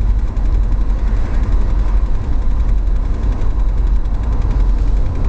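BMW E30 325i running, a steady low rumble with a fast, even ticking over it, which the owner thinks is transmission related rather than from the engine.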